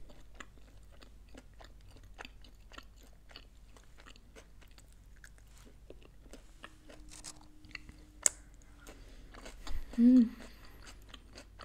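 Close-miked chewing of crunchy tortilla chips: many small irregular crunches of a mouthful being chewed. About ten seconds in comes one short vocal sound from the eater.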